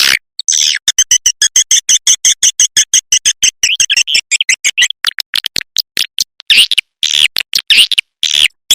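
Swiftlet call lure recording: a rapid train of short, high chirps, about nine a second, giving way about halfway through to slower, louder chirps.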